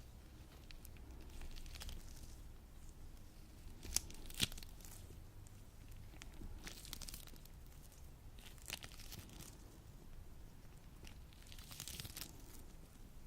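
Latex gloves coated in lotion rubbing and pulling apart, giving soft, intermittent sticky crackling and peeling sounds, with two sharp snaps about four seconds in.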